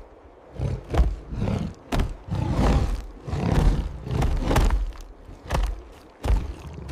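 A series of heavy thuds and short rough bursts, about one or two a second, with quiet gaps between them.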